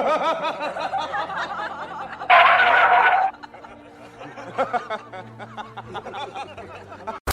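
A person laughing in giggling bursts, with a louder, harsher burst of laughter about two and a half seconds in.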